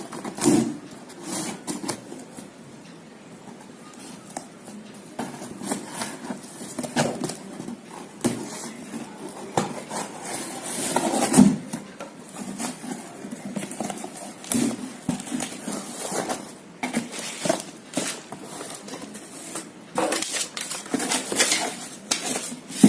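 A delivery parcel being opened and unpacked by hand: irregular rustling, crinkling and knocking of packaging handled close to the microphone, with a louder flurry about half a second in, another around the middle and a busy stretch near the end.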